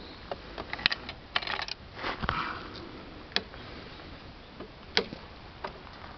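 A scatter of sharp clicks and knocks, handling noise, with a short rustling scrape about two seconds in; no engine is running.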